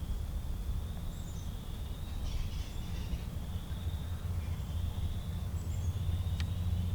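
Outdoor ambience: a steady low rumble under birdsong, with a thin high song repeated over and over and a few short falling high chirps. A single sharp click comes near the end.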